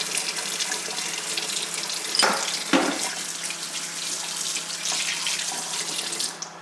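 Kitchen tap running into a sink while parts are rinsed, with two short knocks about two and three seconds in. The water is shut off near the end.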